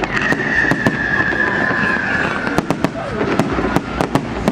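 Fireworks going off: an irregular string of sharp bangs and crackles, with a whistling firework's shrill whistle that falls slightly in pitch and stops about two and a half seconds in.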